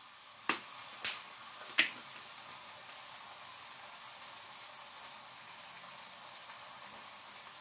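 Chicken breasts sizzling steadily on a cast iron flat-top griddle, with three sharp clicks in the first two seconds.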